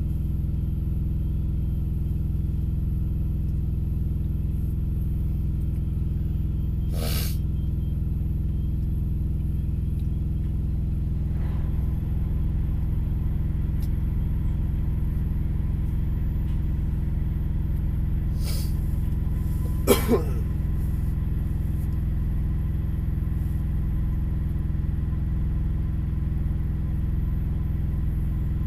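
Steady low rumble of an idling vehicle engine heard from inside the cab. Three short rushes of noise break through, about 7 seconds in, about 18 seconds in and, loudest, about 20 seconds in.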